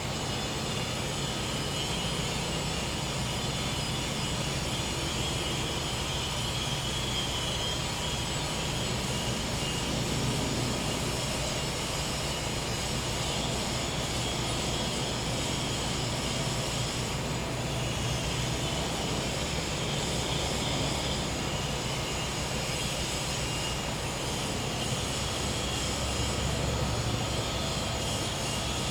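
Steady hum of a gas-powered generator running, with crickets and cicadas buzzing high over it.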